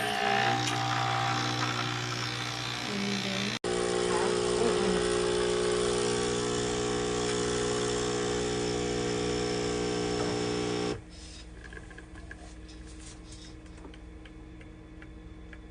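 Nespresso Essenza Mini capsule machine's pump buzzing steadily as it brews a capsule, then cutting off about eleven seconds in.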